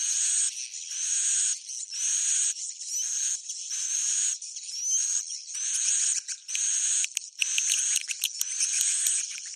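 Swiftlet roosting-call lure recording: edible-nest swiftlet chirps repeating a little faster than once a second. Each is a buzzy call with a high rising whistle. Rapid clicking twitters crowd in near the end.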